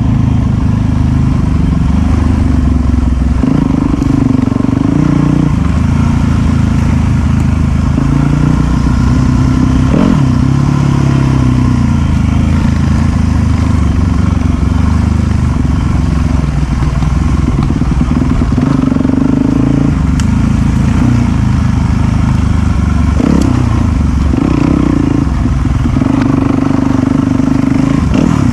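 Dirt bike engine running under the rider on a muddy trail, its pitch rising and falling every few seconds as the throttle opens and closes, with a few brief knocks and clatters from the bike over rough ground.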